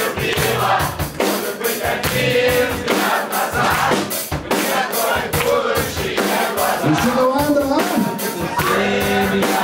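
Rock band playing live: drum kit and amplified instruments, with pitched melodic lines bending up and down in the second half.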